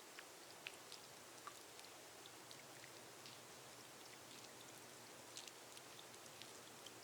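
Gentle rain on a glass roof: a faint steady hiss with scattered single drops ticking sharply, a few each second.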